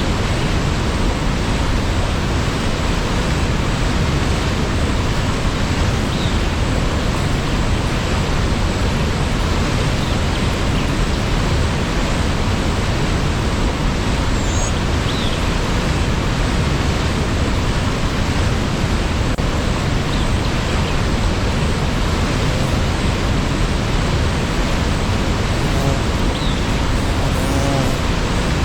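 Waterfall: a steady, loud rush of falling water, with a few faint high chirps here and there.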